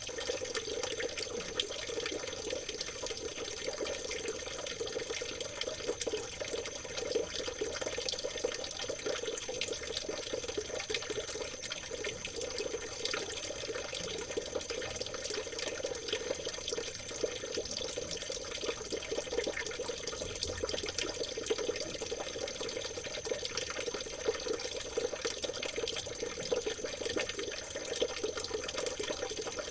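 Stream water trickling and gurgling steadily, a dense, even babble of small splashes.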